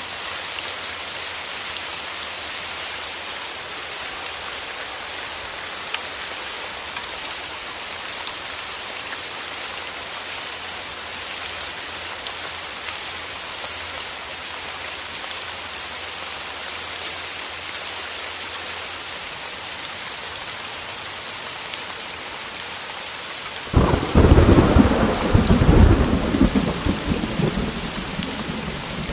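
Heavy rain pattering steadily on a window, with scattered drops ticking. Near the end a thunderclap breaks in suddenly as a loud, low rumble and then fades away.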